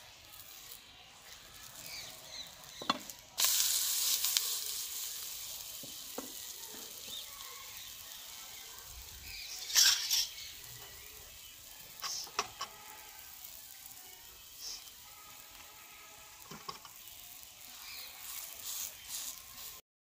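Mooli paratha frying in oil on a flat nonstick tawa: a steady sizzle that jumps up suddenly about three and a half seconds in and slowly dies down, with a few short scrapes and taps of a spatula on the pan.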